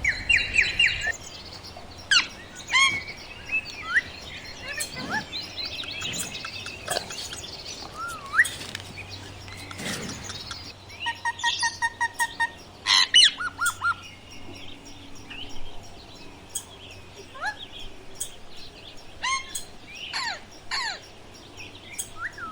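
Indian ringneck parakeet calling: many short, sharp chirps and squawks, some sweeping up or down in pitch. About eleven seconds in comes an even run of about eight quick notes, followed by a rapid burst of calls.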